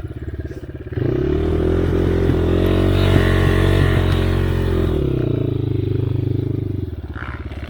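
Enduro dirt bike engine pulled up from idle about a second in, held at steady revs under load for a few seconds, then eased off back down to idle near the end, with some clatter from the bike.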